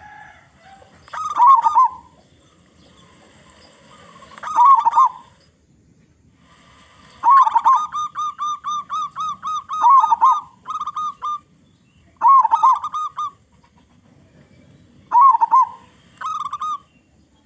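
Zebra dove (perkutut), a local male, cooing in about six bursts of its rolling song, the longest a run of quick, evenly repeated coos lasting about four seconds midway.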